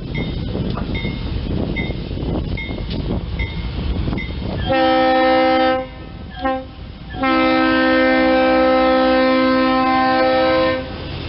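GE C30-7 diesel locomotive passing close by, its bell ringing about once every 0.8 s over the rumble of engine and wheels. It then sounds its multi-chime air horn: a blast of about a second, a short toot, and a long held blast, the end of a grade-crossing signal.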